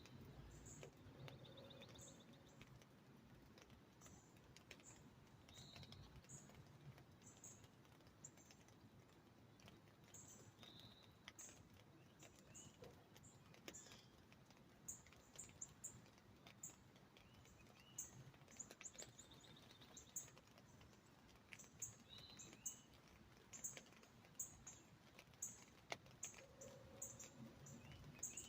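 Faint birdsong: many short high chirps and a few down-slurred calls and brief trills from songbirds, over a soft hiss as the rain dies away, with now and then the sharp tick of a drop on the umbrella.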